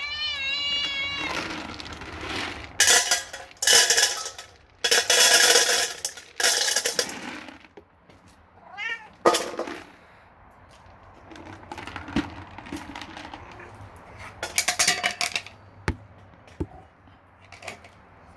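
Domestic cat meowing: a wavering meow at the start and a rising one about nine seconds in. Loud bursts of rustling noise fall between and after the meows.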